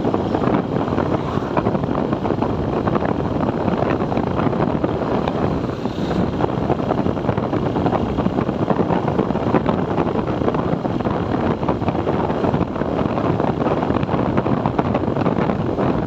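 Wind rushing over the microphone of a moving TVS Apache 4V motorcycle, mixed with its steady engine and road noise.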